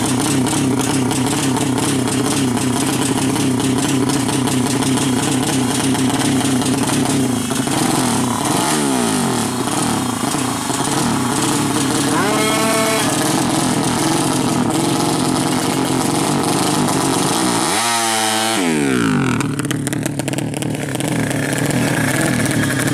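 200cc motorcycle engine running steadily, with a few brief swooping changes in pitch, about a third of the way in and again later on.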